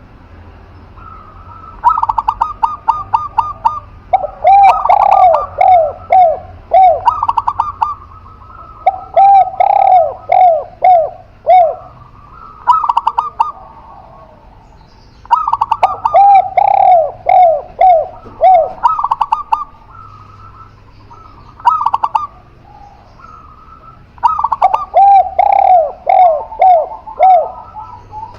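Spotted dove and zebra dove cooing in about six bouts. Each bout is a quick run of short, higher notes followed by a string of lower coos that fall at the end of each note, with brief pauses between bouts.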